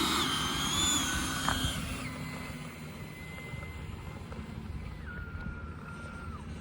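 Electric ducted-fan whine from a Freewing Zeus RC jet's 90mm 12-blade fan, driven by an inrunner brushless motor. It is high at first, then steps down to a lower steady pitch about two seconds in and again about five seconds in, over a low rumble.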